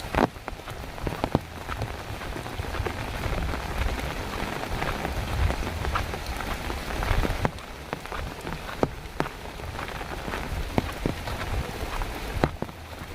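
Heavy rain falling: a steady hiss with many sharp, irregular drop and drip impacts on hard surfaces.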